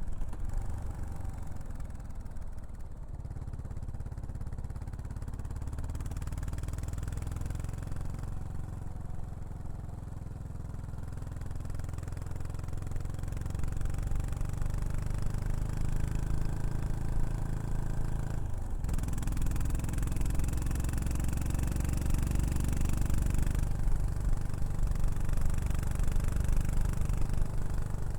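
Yamaha SR400's air-cooled single-cylinder four-stroke engine running through a Prunus aftermarket muffler, a low exhaust note that slowly grows louder, with a brief drop about two-thirds of the way through.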